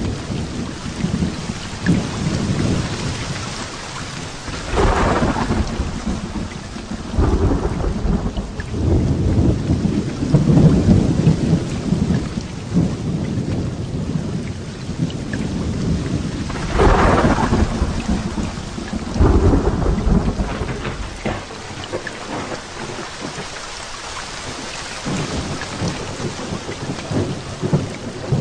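Heavy rain falling steadily through a thunderstorm. Thunder cracks about five seconds in and again a little past the middle, each followed by long, rolling low rumbles.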